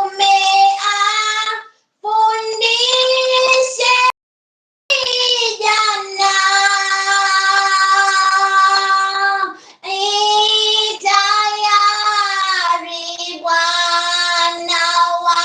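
A single high-pitched voice singing unaccompanied, mostly in long held notes, one sustained for about four seconds. The sound drops out to dead silence twice, briefly near two seconds in and again just after four seconds.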